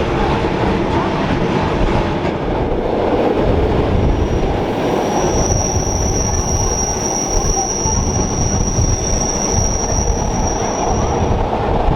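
Rhaetian Railway narrow-gauge train running on the rails with a steady rumble. A single high-pitched wheel squeal starts about four seconds in and holds until near the end.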